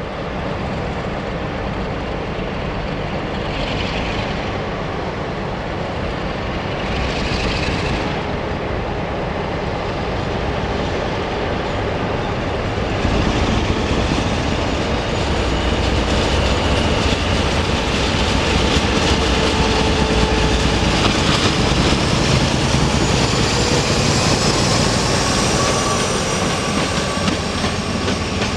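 A train running on the rails, a steady heavy rumble that grows louder about halfway through. In the second half, thin high squealing tones from the wheels on the rails slowly rise in pitch.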